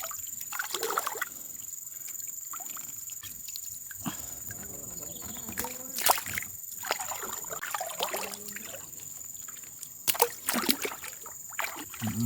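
Water sloshing and light splashing, with a few sharp knocks.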